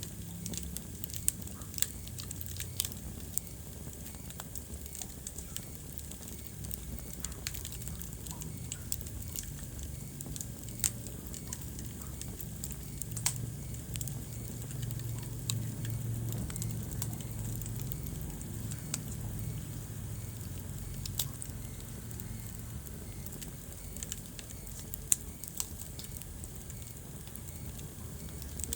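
Wood fire crackling in a fireplace: irregular sharp pops and snaps over a steady low rumble of burning logs, with a few louder pops scattered through.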